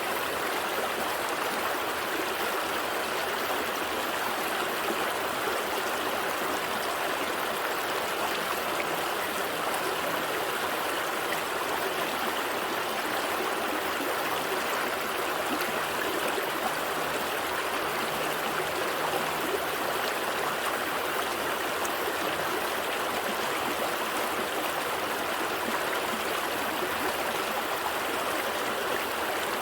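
A small stream flowing steadily over rocks, an even babbling rush of water.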